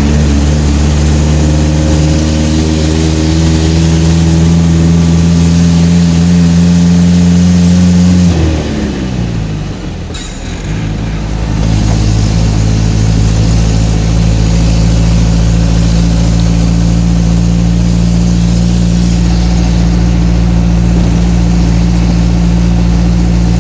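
Isuzu NPR six-wheel truck's diesel engine running under steady load. About eight seconds in the revs fall away and the sound dips for a few seconds, then the engine settles back into a steady pull.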